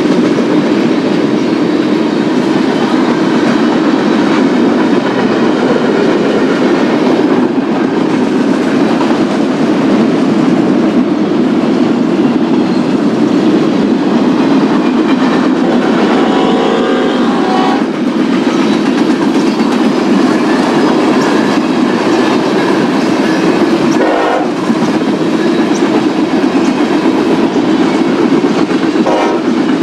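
Freight train rolling past, a steady rumble of wheels on rail with the clickety-clack of railcars. Short higher-pitched tones come and go, the first a bit past halfway.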